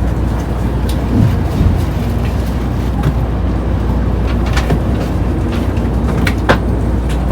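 Steady low rumble and running noise heard inside the passenger cabin of a Tokaido Shinkansen train at speed, with scattered short clicks and knocks.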